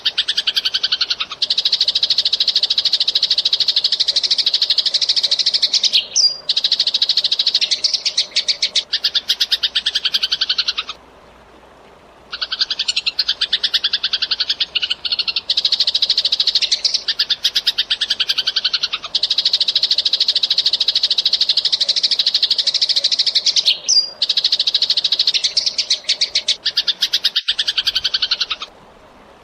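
Eurasian tree sparrows chirping in long, fast, tightly packed runs. The runs break off briefly about eleven seconds in and again near the end.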